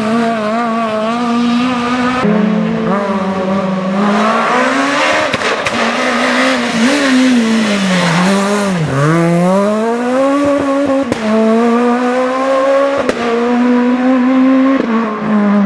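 An S1600 rally car's high-revving 1.6-litre four-cylinder engine running flat out. Its pitch jumps up and down abruptly several times, dips to its lowest about nine seconds in, and then climbs steadily as the car accelerates hard.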